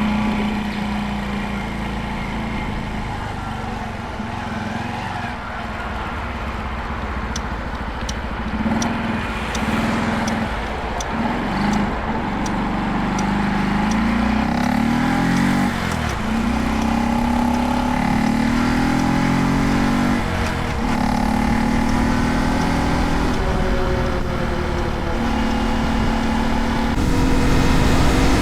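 Honda Dax 125's single-cylinder four-stroke engine running under way. Its note climbs and then drops back several times as it shifts up through the gears.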